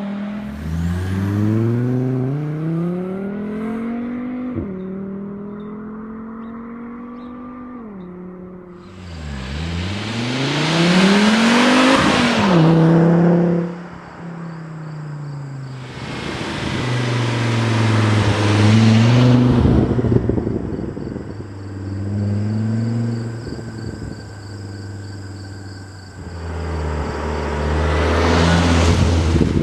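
Volvo V70 R's turbocharged five-cylinder engine and exhaust accelerating. Its pitch climbs and drops back at each gearchange, with several quick upshifts in the first eight seconds. Then come three longer, louder pulls in which a loud rushing noise rides over the engine note.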